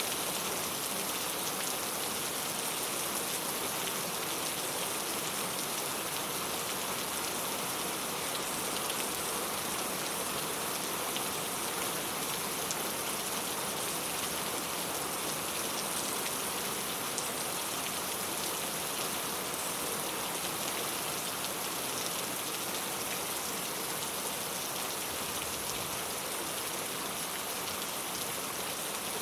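Steady rain falling on a clay-tile roof: a continuous even patter of many drops, with no let-up or thunder.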